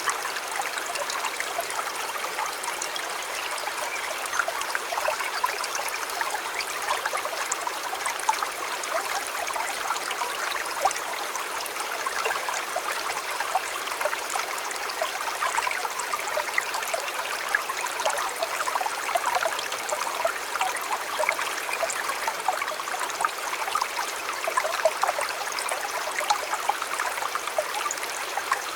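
River water flowing steadily: an even rush dotted with many small splashes and trickles, with little deep rumble.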